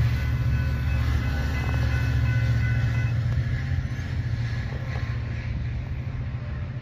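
Train running by, a heavy steady rumble with a few steady tones above it that fade out about three seconds in, the whole sound slowly dying away.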